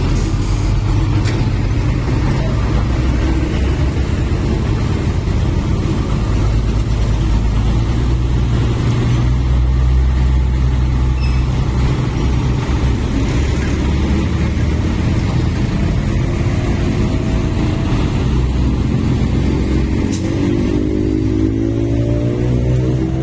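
Heavy sugarcane transport trucks running with a steady low engine drone. Over the last few seconds an engine revs up, its pitch rising.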